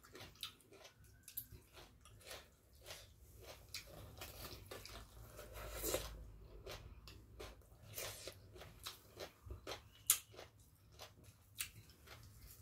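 Close-miked chewing of a mouthful of green papaya salad: irregular wet smacks and crunches, with a louder crunch around six seconds in and a sharp snap about ten seconds in.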